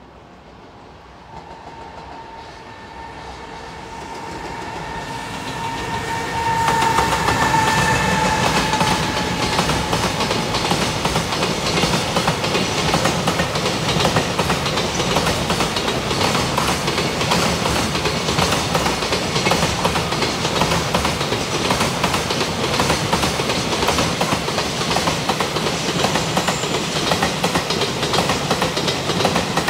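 A container freight train approaches and then rolls past close by. Its wheels give a loud, steady rumble on the rails, with fast clickety-clack from the wagons running over the rail joints. During the approach a steady tone sounds and dips slightly in pitch as the train draws level.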